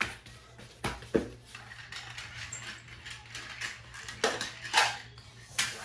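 Small plastic McDonald's Happy Meal toy monster trucks rolling and clattering over a toy obstacle course. There are several sharp knocks and clicks, at the start, about a second in, and three more near the end, with light rattling between them.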